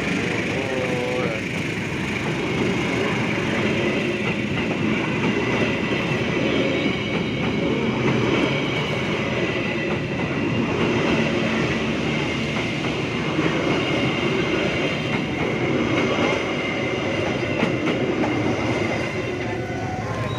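Pangrango passenger train running on the rails, a steady, loud rolling noise with rapid wheel-on-rail clatter throughout.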